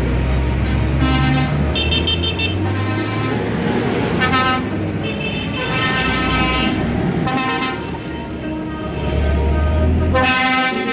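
Passing tractors tooting their horns over and over, short blasts and longer toots, over the low, steady running of their engines.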